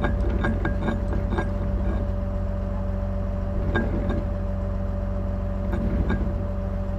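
Tow truck's engine idling steadily with a constant whine over it, and scattered clinks and knocks of recovery gear being handled.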